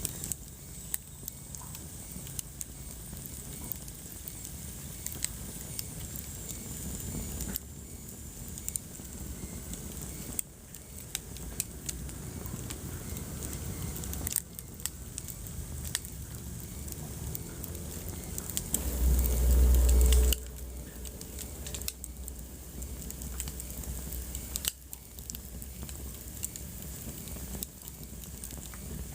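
Wood fire crackling in a fireplace: many sharp pops and snaps over a steady hiss of flame. About two-thirds of the way through, a deep low rumble swells for about a second and is the loudest sound.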